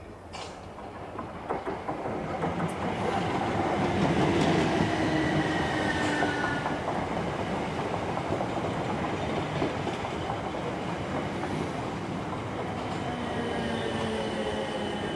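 Train approaching and running past, growing louder over the first few seconds, with wheels clicking over rail joints and a whine that falls in pitch.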